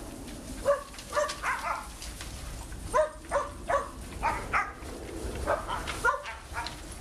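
A dog barking repeatedly: about a dozen short barks in quick groups of two to four.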